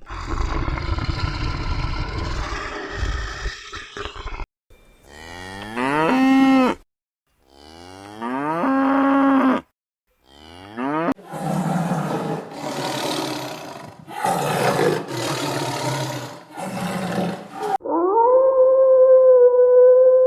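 A string of separate animal sound effects: a rough, noisy call, then two long cow moos that rise in pitch and level off, a run of short harsh calls, and a steady pitched tone starting near the end.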